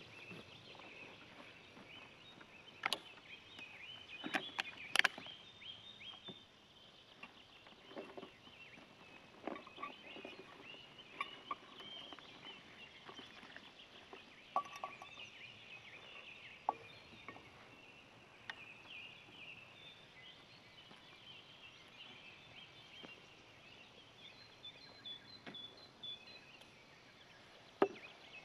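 Faint outdoor ambience of birds calling and chirping, broken by a few sharp cracks or snaps, the loudest about five seconds in and again near the end.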